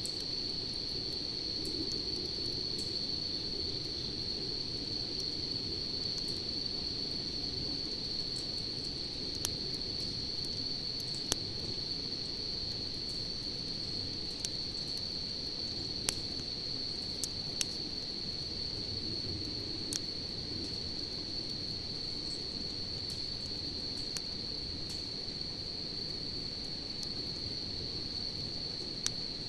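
Wood campfire burning with scattered sharp crackling pops, over a steady, unbroken high chirring of crickets.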